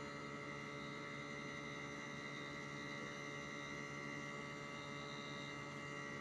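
Hitachi 1-ton split air conditioner outdoor unit running: a steady mechanical hum with several fixed whining tones, unchanging throughout.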